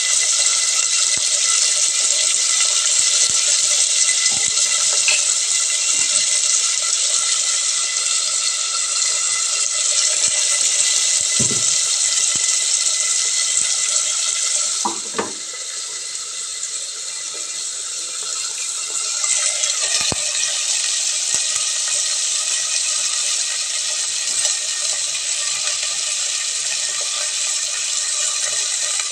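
Chopped onions and tomatoes frying in hot oil in a clay pot: a steady sizzle that drops in level for a few seconds about halfway through and then picks up again, with a few light knocks.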